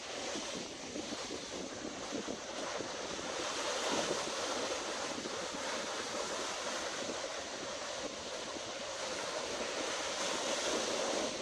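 Ocean surf washing onto the beach in a steady rush that swells and eases, with wind blowing across the microphone.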